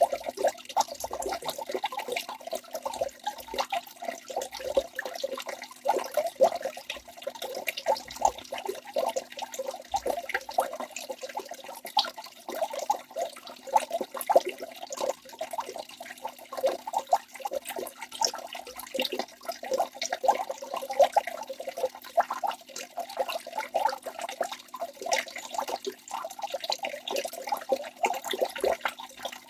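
Waterfall rushing: a steady, continuous wash of falling and splashing water with a dense, flickering texture.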